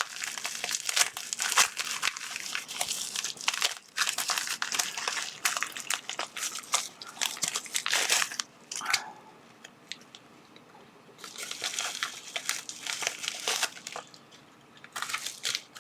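Plastic packaging crinkling and rustling as a parcel is opened and unwrapped by hand, in spells with a lull about nine seconds in.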